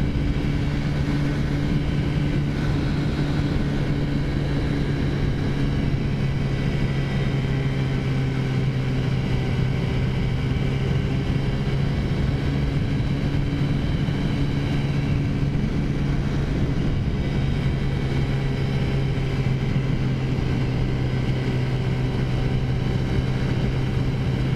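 Taotao 50cc CVT scooter engine running at a steady cruise, its pitch holding level, with its stock air cleaner (baffles removed) fitted, over a steady rush of wind and road noise.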